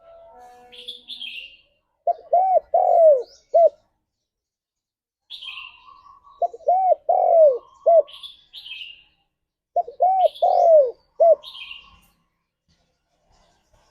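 Spotted dove cooing: three phrases of about four arched coos each, roughly every four seconds. Short high chirps fall between the phrases.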